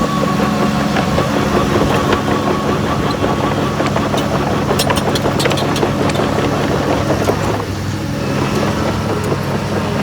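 Heavy diesel earthmoving machine's engine running steadily, with a cluster of sharp knocks near the middle. The busier part of the noise eases off about three-quarters of the way through.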